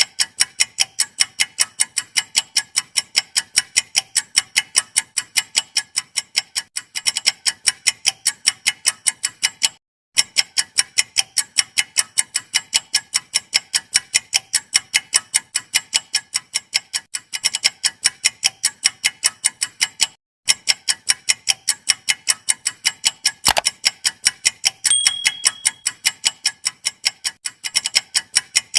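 Clock-ticking sound effect: rapid, even ticks, like a quiz countdown timer, pausing briefly about every ten seconds. A short high beep sounds near the end.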